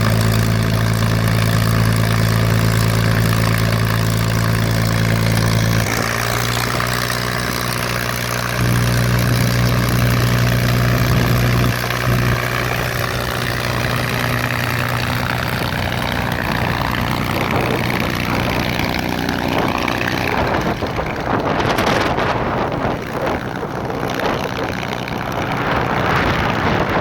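P-51 Mustang fighter's V12 engine and propeller running at idle, the note shifting about six seconds in and again around twelve as power changes for taxiing. The sound then grows rougher and less even, with wind noise on the microphone near the end.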